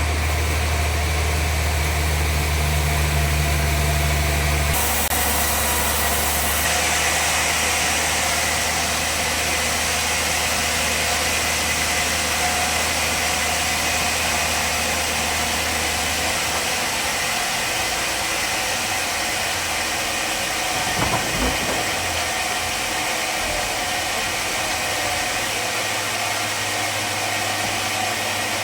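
Bandsaw sawmill machinery running steadily with a motor hum. The low part of the hum drops away about halfway through, and a couple of short knocks come later.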